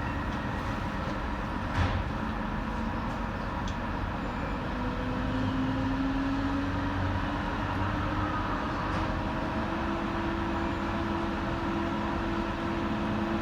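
Docklands Light Railway train running, heard from on board: a steady rumble with a motor whine that rises in pitch from about four seconds in as the train gathers speed, then holds steady. A single knock about two seconds in.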